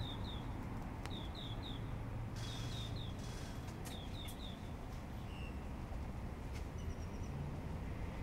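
A bird chirping, short high notes in quick groups of three, repeating several times in the first half, over a steady low rumble.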